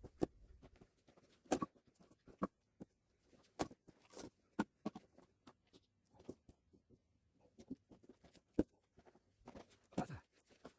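Light knocks and clicks at irregular intervals, a few a second at most, with short quiet gaps between them.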